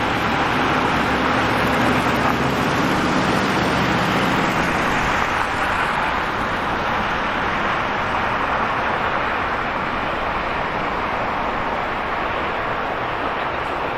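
City street traffic: a steady rush of passing cars and tyre noise. A vehicle engine's low hum is heard for the first few seconds, then fades, and the overall level eases off slightly.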